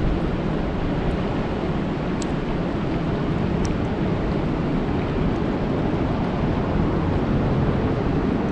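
Steady rain falling on a lake: an even hiss with a heavy low rumble, with a couple of faint sharp ticks.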